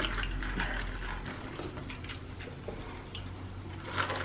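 Close-up eating sounds of fried chicken being chewed: a run of small crisp clicks and crackles.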